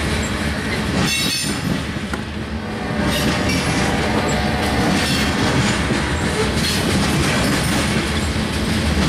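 Covered hopper cars of a freight train rolling past, a steady heavy rumble of steel wheels on rail. Brief high-pitched wheel squeals come about a second in and again about three seconds in.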